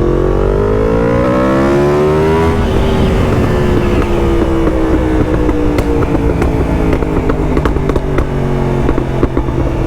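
Yamaha MT-10's crossplane inline-four engine through a titanium Akrapovic race exhaust, revving up under acceleration for about two and a half seconds, then easing off with the note slowly falling while the exhaust crackles and pops repeatedly on the overrun. The backfires are so loud.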